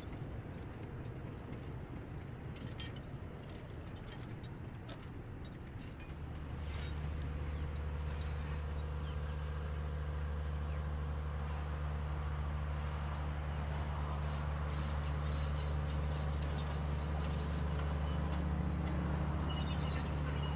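Diesel locomotive of a sugar cane train running: a steady low engine hum comes in about six seconds in and keeps on, slowly getting louder.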